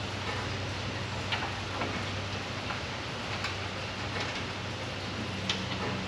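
Steady low hum with a handful of light, sharp clicks and taps scattered through it.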